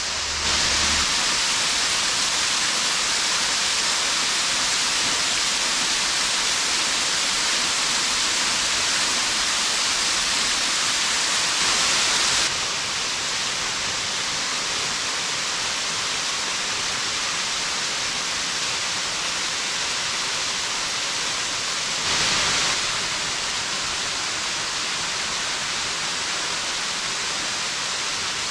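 Waterfall pouring down over rocks: a steady rush of falling water, with a couple of sudden small shifts in loudness.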